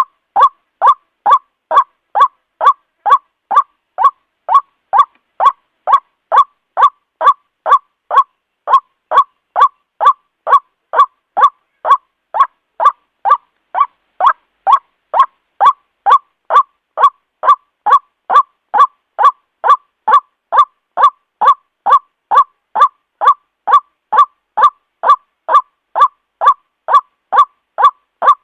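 White-breasted waterhen (ruak-ruak) calling: a loud, harsh 'kwak' note repeated evenly about twice a second, the bird's advertising call used as a lure.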